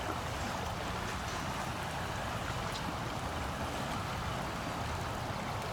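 Steady rushing of flowing river water, with a low rumble underneath.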